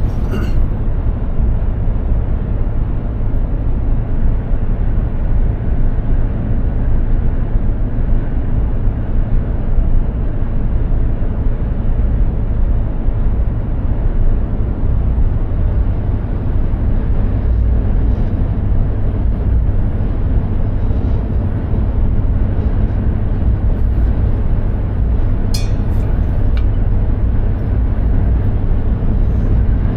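Mercedes-Benz Actros 2763 truck driving at a steady speed: a constant low drone of its straight-six diesel engine and road noise. A brief click sounds near the end.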